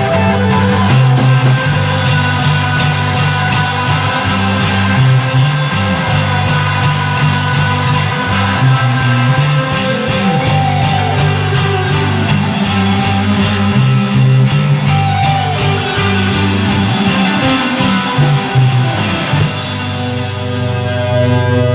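Rock band playing live: electric guitar, bass guitar and drums with cymbals. About twenty seconds in, the drums and cymbals stop and held guitar chords ring on.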